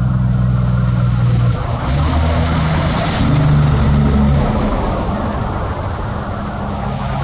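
Truck engine running in road traffic, with tyre and traffic noise. Its low engine note steps in pitch a few times, about one and a half, two, three and four and a half seconds in.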